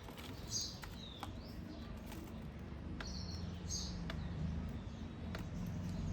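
Small birds giving short, high chirps, a few at a time, with scattered faint sharp ticks over a low background rumble.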